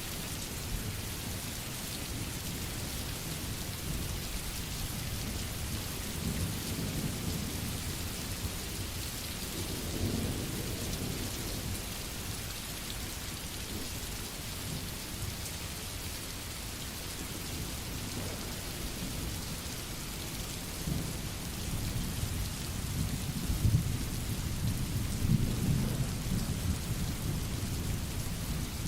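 Steady rain hissing, with low rolling thunder that swells about a third of the way in and rumbles more strongly near the end.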